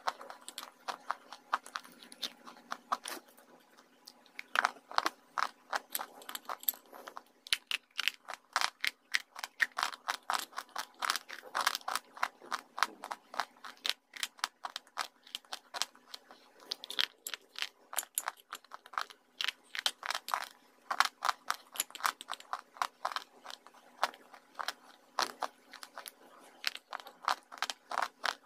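Close-up chewing of slate pencils dipped in wet clay paste: rapid, dry, crisp crunches in quick runs, with a couple of brief pauses.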